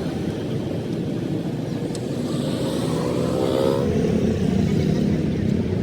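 Tractor engine running steadily under way, growing a little louder after about four seconds.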